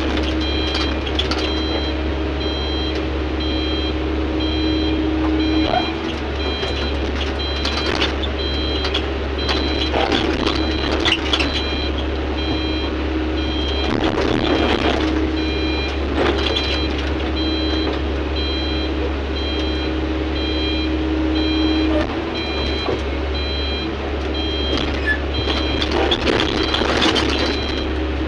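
Heavy earthmoving machinery: a diesel engine running steadily while a reversing alarm beeps over and over. Bursts of clanking and scraping come several times.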